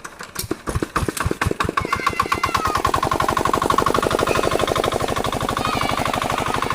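Old diesel water-pump engine starting: a few uneven chugs in the first two seconds, then it catches and settles into a steady, fast, even chug. A whine rises in pitch just after two seconds in and then holds steady.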